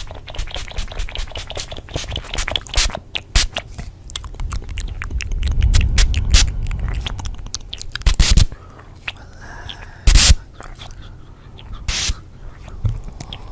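Layered ASMR trigger sounds: dense, irregular clicking and crackling, over a low rumble that swells and fades in the middle. A few louder knocks stand out, about eight, ten and twelve seconds in.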